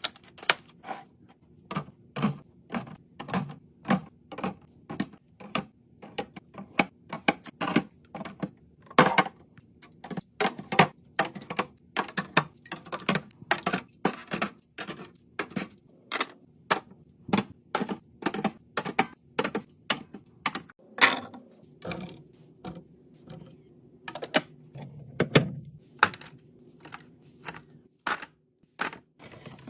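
Fridge restocking: containers and packages being set down and arranged on shelves, giving many quick clicks, taps and light knocks, a few a second, over a faint steady hum.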